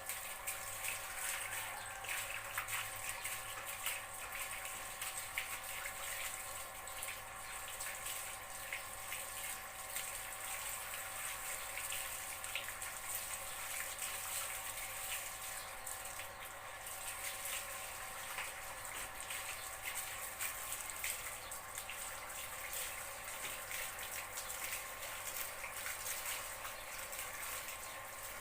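Water running steadily, with small irregular splashes and drips, over a constant faint hum.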